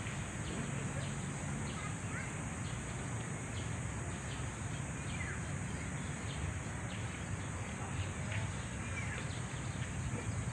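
Outdoor park ambience: scattered short bird chirps over a steady low rumble and a steady high hiss.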